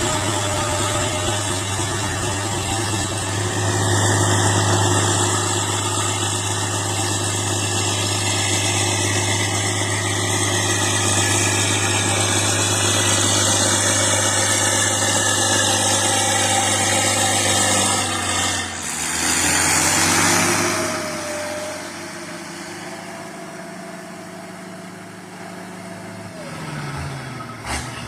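Fiat 1300 crawler tractor's diesel engine running steadily, a low steady hum with clatter. About two-thirds of the way through there is a short loud surge of noise, after which the engine runs quieter for the last several seconds.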